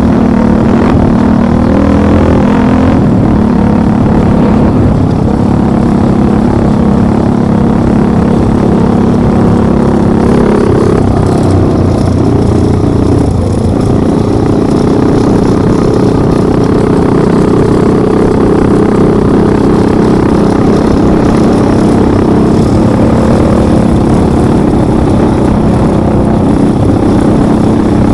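Motorcycle engine running continuously under way, its pitch stepping up about ten seconds in and holding at higher revs.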